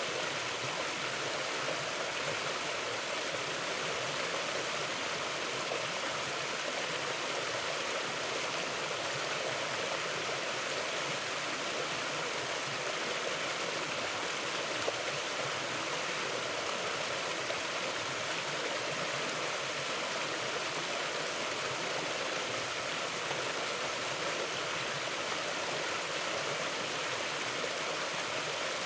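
A stream flowing over rocks, a steady rushing of water.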